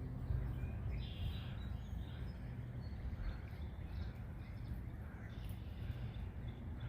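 Outdoor woodland ambience: a steady low rumble with a few faint bird calls, the clearest about a second in.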